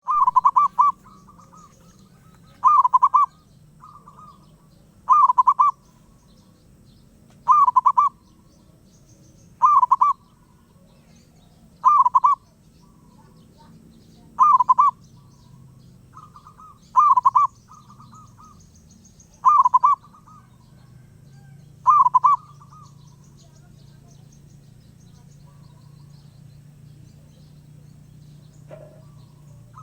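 Wild zebra dove (perkutut) cooing: about ten short coo phrases, one every two and a half seconds, then falling silent for the last several seconds.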